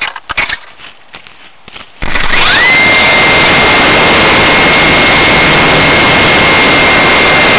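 Electric motor and propeller of an RC plane throttling up about two seconds in: a whine that rises quickly, then holds one steady pitch over loud propeller wash. A few faint clicks come before it.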